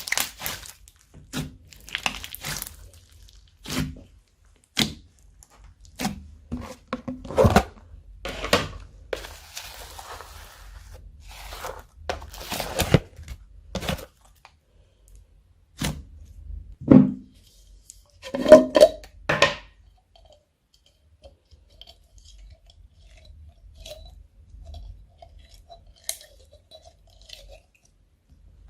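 Slime being worked by hand, giving a run of irregular sharp crunches and crackles. After about twenty seconds the crunching stops and only faint small clicks remain.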